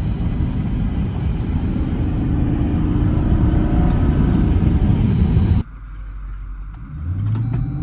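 The 5.7-litre Hemi V8 of a 2014 Jeep Grand Cherokee accelerating hard, its exhaust rumble slowly rising in pitch. A little over halfway through the sound drops away abruptly, then the engine climbs in pitch again near the end as it pulls once more.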